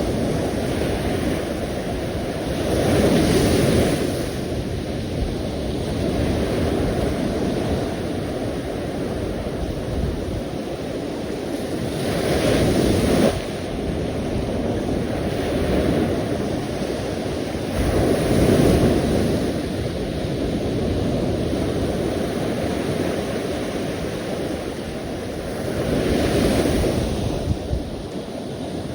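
Sea waves breaking and washing on the shore in a steady rush, with four louder surges as bigger waves come in, several seconds apart.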